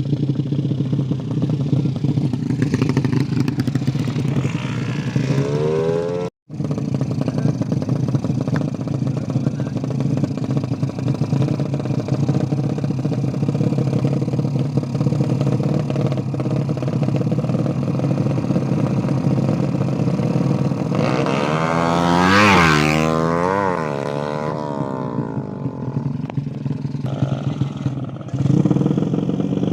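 Small engine running steadily, revved briefly about five seconds in and again, higher and longer, a little after twenty seconds, the pitch rising and then falling back to idle. The sound cuts out for a split second about six seconds in.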